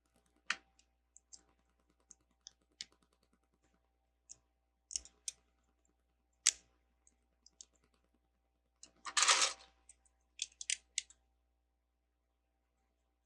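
Plastic Lego bricks clicking and tapping as pieces are picked up and pressed together, in scattered sharp clicks. About nine seconds in there is a brief rattling rustle, like pieces being shuffled.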